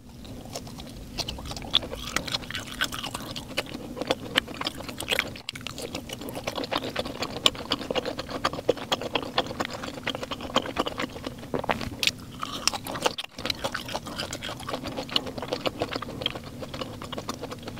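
Close-miked chewing of a fried green-rice patty (chả cốm): a dense, steady run of small mouth clicks and smacks, briefly breaking twice.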